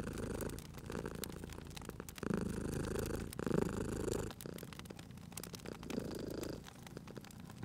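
Domestic cat purring, the sound swelling and fading with each breath, over the small pops and crackles of a wood fire.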